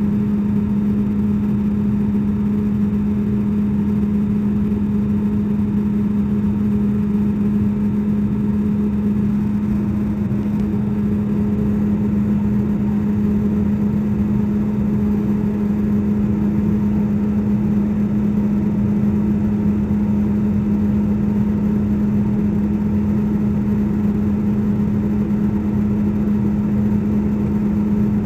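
Airliner cabin in flight: the steady drone of the engines and airflow, with a strong, unchanging low hum over a rushing noise.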